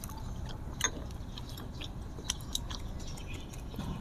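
Eating sounds: chewing with scattered short wet mouth clicks and smacks, one louder about a second in, over a steady low rumble.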